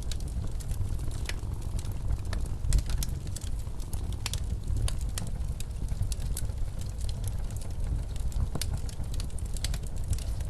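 Wood fire crackling in a fireplace, with irregular sharp pops and snaps, over a steady low rumble of blizzard wind.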